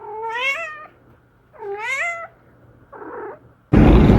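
Kitten meowing: two clear meows, each rising then falling in pitch, then a shorter, softer one about three seconds in. Near the end a much louder burst of noise starts abruptly.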